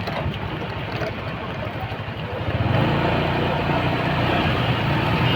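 Motorcycle engine running on the road, its note growing louder and stronger about halfway through.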